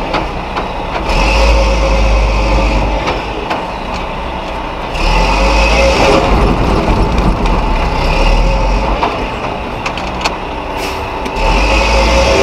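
Mack RB concrete truck's diesel engine revving hard under load in three long surges, dropping back between them, as the fully loaded truck struggles to drive out of soft sand where it is stuck.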